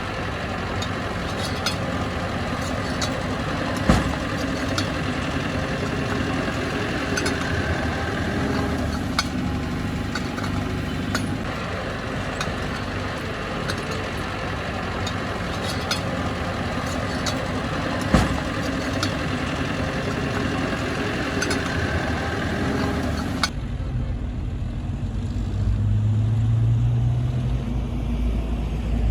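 Bulldozer's diesel engine running under work, with scattered metallic clicks and two loud clanks. About three-quarters through, the sound switches abruptly to a lower, deeper engine note that rises briefly in pitch.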